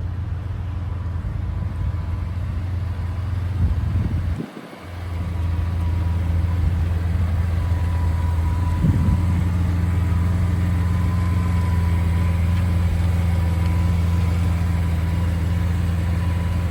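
A vehicle engine idling steadily, with a low even hum that drops out briefly about four and a half seconds in, then carries on a little louder.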